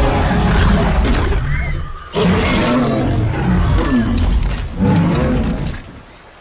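A large animal roaring in three long, deep bouts, the last fading out near the end.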